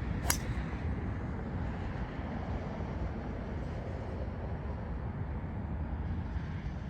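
A 3-wood striking a golf ball off the tee: one sharp click just after the start. Steady low wind rumble on the microphone follows.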